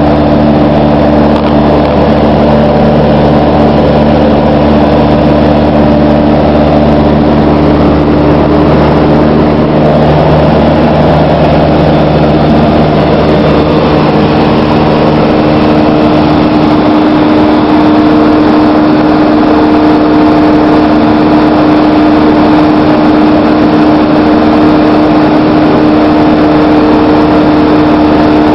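Cessna 152's four-cylinder Lycoming engine and propeller running loud and steady. Its tone changes partway through, about ten to sixteen seconds in.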